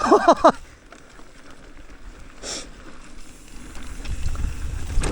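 A person's short shout, then quieter outdoor noise. A low wind rumble on the microphone builds up over the last second or so.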